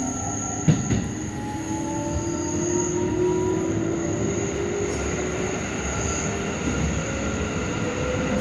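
Keikyu 1000-series electric train accelerating: its traction motors and inverter whine in several tones that climb slowly in pitch over the running rumble of the wheels on the rails, with a steady high whistle above. A single knock about 0.7 seconds in.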